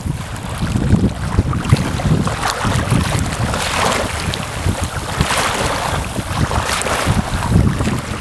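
Wind buffeting the microphone in uneven gusts, over a deep rumble.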